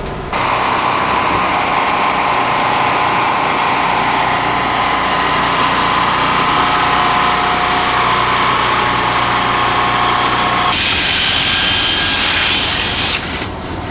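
A small electric power tool running steadily with a whining motor, turning harsher and hissier for about the last two seconds before it stops.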